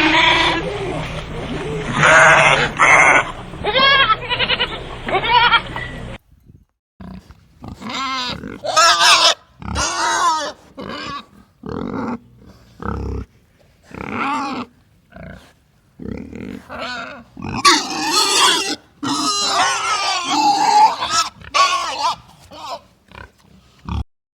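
Bleating for about the first six seconds, then, after a cut, pigs grunting and squealing in a run of short calls.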